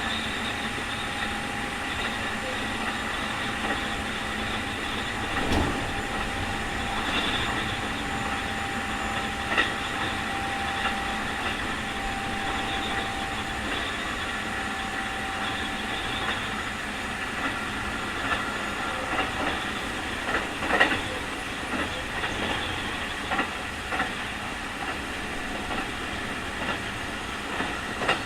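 Keikyu 2000 series electric train with field-chopper control running steadily, its continuous running noise carrying a steady whine: the strong 'jet sound' for which this car is known as an abnormal-noise car. Sharp clacks of the wheels over rail joints come now and then, the loudest about 21 seconds in.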